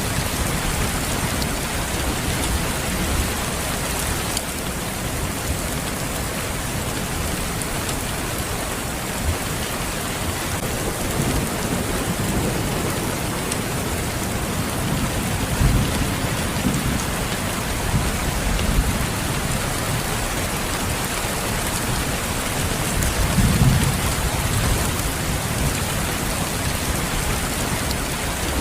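Steady heavy rain falling on a surface, with a few low rumbles of distant thunder swelling under it, the loudest one late on.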